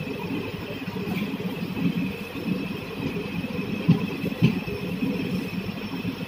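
Ride noise of an express passenger train rolling on the rails: a steady low rumble with irregular wheel knocks, two sharper ones about four seconds in, over a faint steady high whine.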